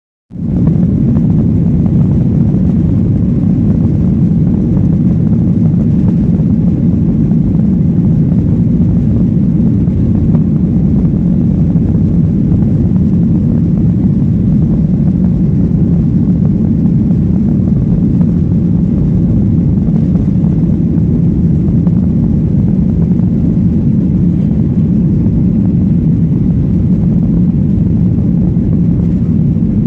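Steady, loud low rumble of a Boeing 737-800's CFM56 jet engines and airflow, heard inside the cabin from an economy window seat.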